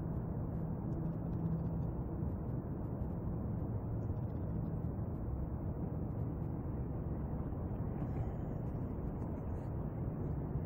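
Steady low rumbling background noise with a faint low hum and no distinct events.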